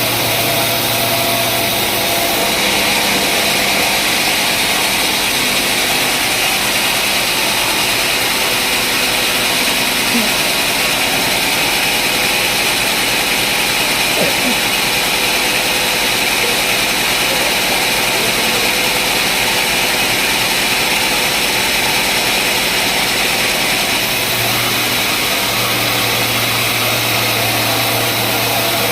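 Sawmill saw cutting through a log of very hard wood: a steady, loud machine noise that grows harsher for about twenty seconds while the machine's low hum drops out, then settles back to the running hum near the end.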